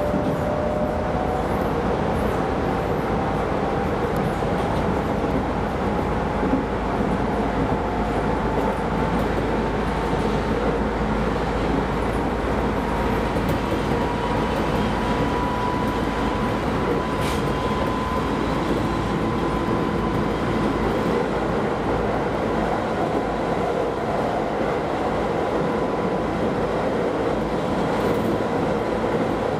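Keisei Line rapid electric train running, heard from inside the front car: a steady rumble of wheels on rail. Over it a motor whine rises slowly in pitch for the first twenty seconds or so as the train gathers speed, then holds steady.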